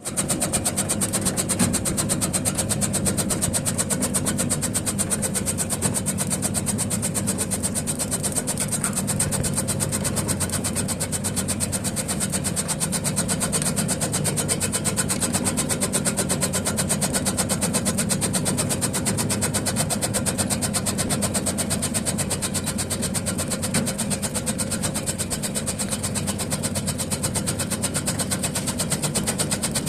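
Motor-driven tobacco and taro-leaf shredding machine running steadily, with a fast, even mechanical clatter.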